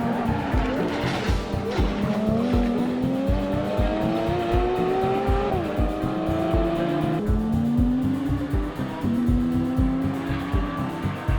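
Car engine accelerating hard, its pitch climbing and dropping back twice at gear changes, over background music with a steady beat.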